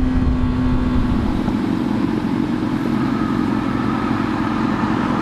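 Honda CBR600RR inline-four engine running steadily at low revs, with a low wind rumble on the helmet microphone that eases after about a second and a half.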